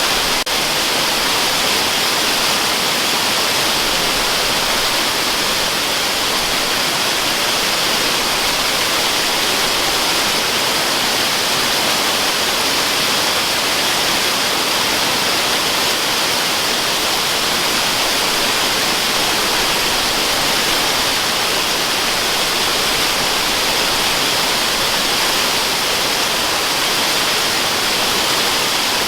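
Steady rushing of a waterfall: an even, unbroken hiss of falling water, heavier in the high range than in the low.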